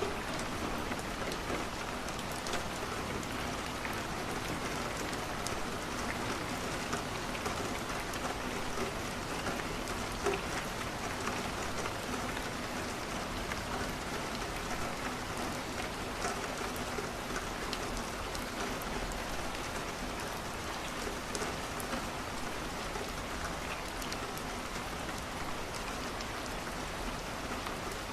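Steady rain falling on a window, an even patter with scattered small sharp ticks.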